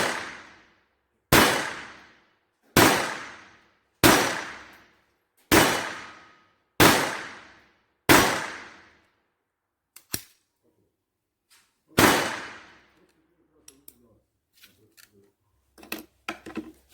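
Taurus PT-22 .22LR semi-automatic pistol firing RWS High Velocity rounds: seven sharp shots at an even pace of about one every 1.4 s, then a pair of small clicks, and a last shot about 12 s in. Faint small clicks and knocks follow near the end.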